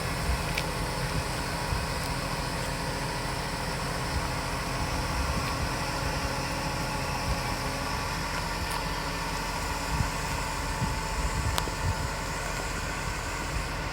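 An engine running steadily, a constant low rumble and hum with a few faint clicks.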